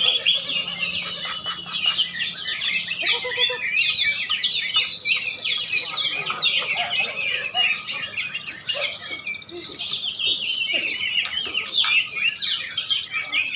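Many caged songbirds singing at once, a dense, continuous chorus of fast overlapping chirps and trills from birds entered in a song contest.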